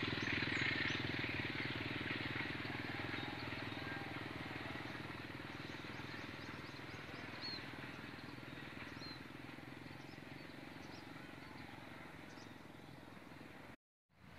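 A train that has just passed fades steadily into the distance: the low drone of its diesel locomotive and running gear dies away. Birds chirp faintly over it, and the sound cuts out for a moment near the end.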